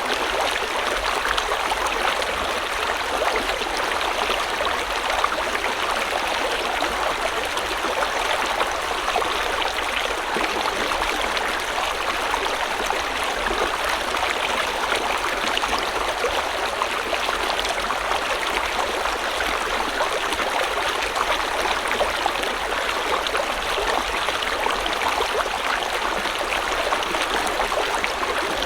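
River or stream water flowing over rocks: a steady, even rushing and babbling that holds the same level throughout.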